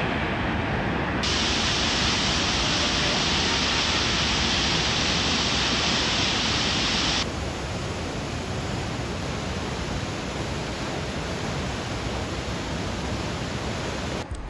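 Steady rush of falling water from a waterfall. The sound shifts abruptly twice, about a second in and again about seven seconds in, brighter and louder in the middle stretch.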